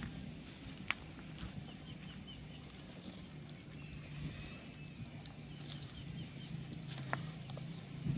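Outdoor ambience: a steady insect buzz with short bird chirps. Under it runs a low steady hum, and two sharp clicks come about a second in and near the end.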